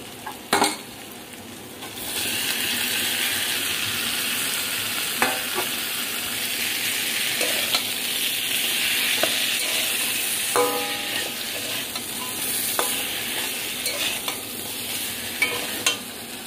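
Pointed gourd, prawns and potatoes sizzling in spiced masala in a kadai, stirred with a metal spatula that knocks and scrapes against the pan now and then. The sizzling starts about two seconds in and then holds steady.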